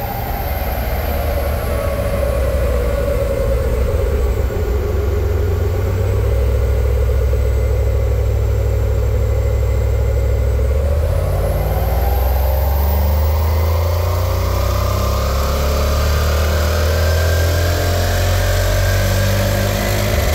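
Jaguar XKR's supercharged 4.2-litre AJ V8 running on a rolling road dyno. Its revs fall over the first few seconds and hold low for a while, then climb steadily through the second half as the engine pulls under load in a power run.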